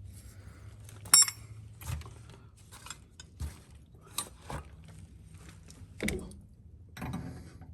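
Scattered metallic clinks and taps of a wrench and metal fittings being handled, the loudest about a second in with a brief ring, over a faint low hum.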